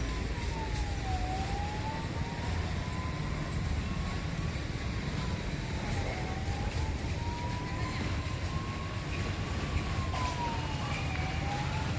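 A siren wailing slowly, its pitch sinking and climbing again about every five seconds, over a steady low rumble.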